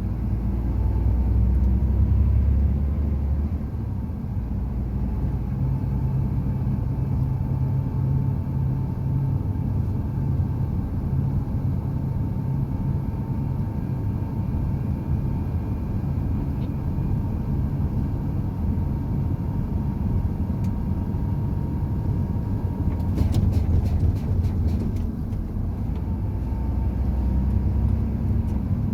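Heavy truck driving: a steady low rumble of engine and road noise, with a faint steady whine above it. A short run of clicks comes about three quarters of the way through.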